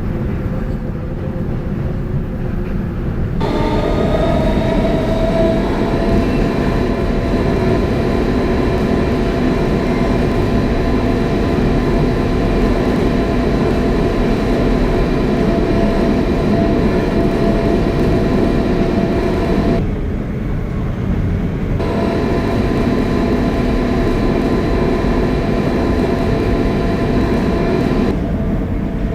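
Inside a Kawasaki R160B-2 subway car with Siemens propulsion, running at speed: a steady rumble with a high multi-tone whine from the traction motors. The whine comes in about three seconds in, drops out for a couple of seconds about twenty seconds in, and drops out again near the end, leaving only the running rumble.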